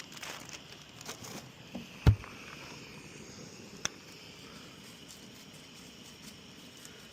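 Light handling rustles and clicks, then a single sharp knock about two seconds in and a smaller click near four seconds, over a faint steady background hum.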